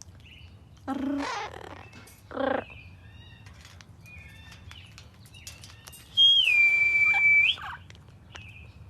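A long, loud, clear whistle about six seconds in that drops in pitch and is held steady for over a second: a hawk-warning signal to a pet parrot. Short soft bird chirps and two brief rough squawk-like sounds come before it.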